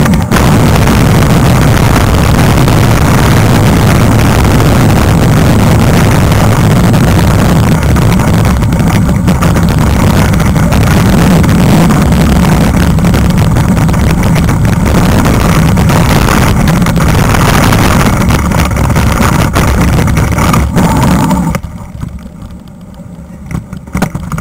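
Wind buffeting and rumble on a helmet-mounted camera microphone as a mountain bike rolls down a trail, loud and steady, then dropping off sharply near the end.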